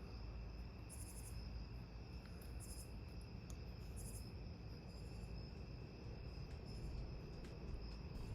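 Faint crickets chirping in short high-pitched bursts about every second or so, over a steady low rumble.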